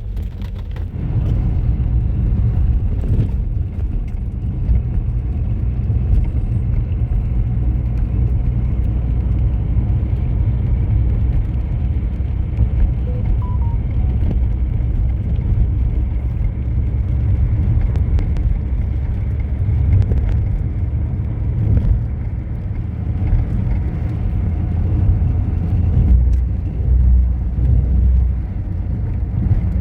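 Steady low engine and road rumble of a vehicle driving along, without letup.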